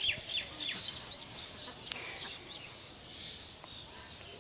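Birds chirping: a quick series of short, falling chirps through the first second or so, then fading away. A single sharp click comes about two seconds in.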